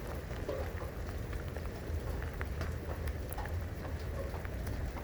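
Rain falling, with many scattered drops ticking sharply over a steady low rumble.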